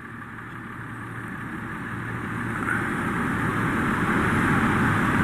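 Powerboat's outboard motor under power, a steady drone that grows steadily louder.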